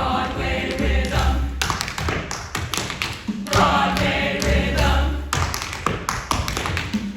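Tap shoes striking a stage in quick runs of taps over backing music, the taps coming in two spells, the first starting about a second and a half in and the second after about five seconds.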